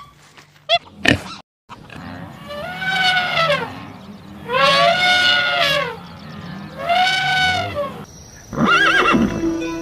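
An animal calling three times, each call about a second long and rising then falling in pitch, followed near the end by a shorter, wavering call.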